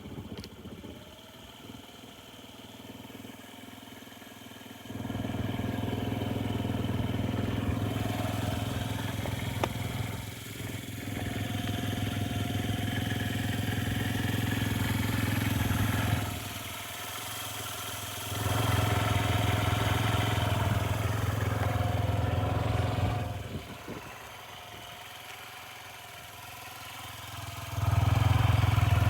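Honda Zoomer scooter's single-cylinder four-stroke engine idling, then held at raised revs for several seconds at a time, four times, settling back to idle between each.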